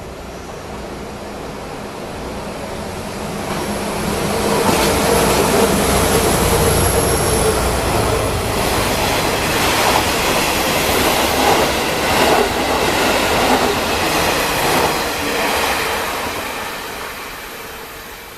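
A diesel train of two DE10 locomotives hauling diesel railcars passing close by. It swells to full loudness about four seconds in. Then come irregular clacks of the wheels over the rail joints, and it fades away near the end.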